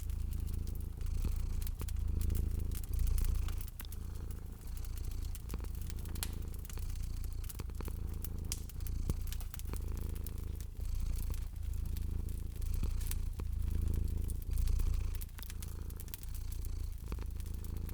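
Domestic cat purring steadily, a low rumble that swells and fades about once a second with each breath in and out, over the light snapping and popping of a wood fire crackling.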